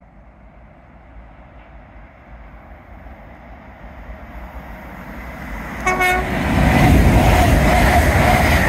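A train approaching with a rumble that grows steadily louder, sounding a short horn toot about six seconds in, then passing close by, loud.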